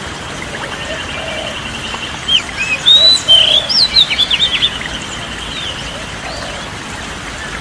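Birdsong ambience over a steady hiss: a fast, even trill runs in the background, and about two seconds in one bird sings a loud burst of quick whistled chirps and upslurred notes lasting a couple of seconds.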